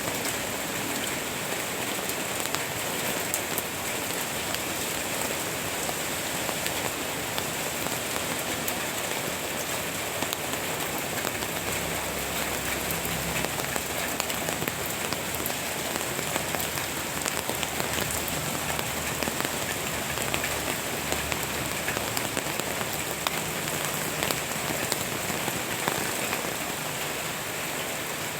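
Steady rain falling, with many sharp ticks of individual drops hitting surfaces close by.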